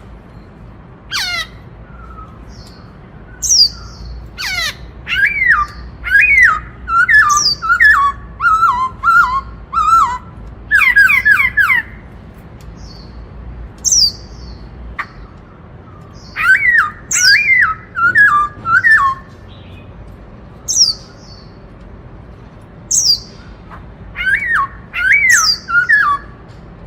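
Black-throated laughingthrush (khướu bạc má) singing loud in the 'bắt cô trói cột' style: bursts of quick whistled notes, mostly falling in pitch, mixed with sharp high calls, with pauses of a few seconds between phrases.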